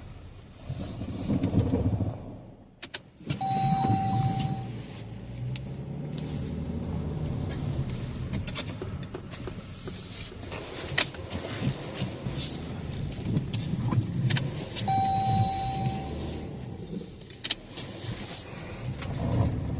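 A vehicle running steadily, with a few clicks and knocks. An electronic beep lasting about a second sounds twice, about eleven seconds apart.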